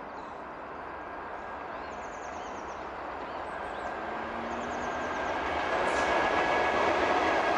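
An electric-locomotive-hauled passenger train approaching on the main line, its rush of wheels on rail growing steadily louder. A small bird twitters in short trills a couple of times in the background.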